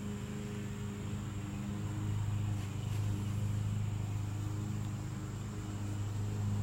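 A steady low hum with a few faint even overtones, like a motor running.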